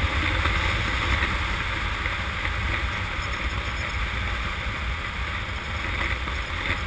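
Steady wind rush and engine noise from a Honda CM200T motorcycle cruising at road speed, with the wind over the microphone heavier than the engine.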